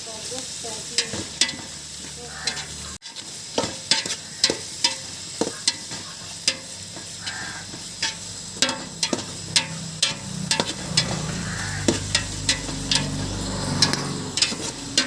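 Chicken masala frying in a pan with a steady sizzle, while a utensil stirs it, scraping and knocking against the pan in sharp, irregular clinks.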